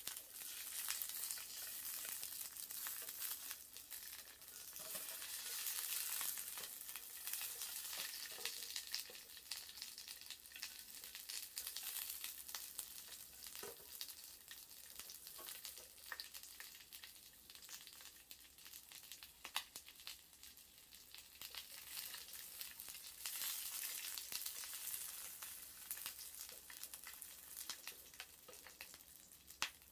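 Wood fire in a small wood stove crackling and sizzling: a steady high hiss with frequent sharp crackles and pops, with the sizzle of sausages cooking over it.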